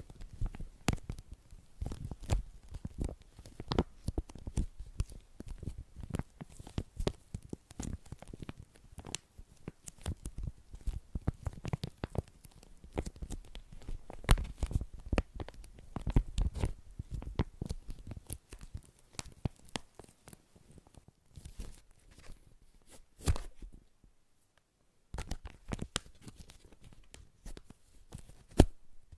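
Close-miked ASMR trigger sounds: dense, irregular crackling, tapping and rustling right at the microphone, with a brief silent gap about three-quarters of the way through.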